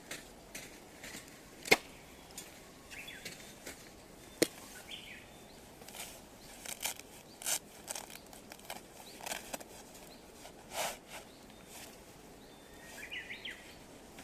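Firewood burning with irregular crackles and two sharp, loud pops in the first few seconds. Birds chirp briefly a few times.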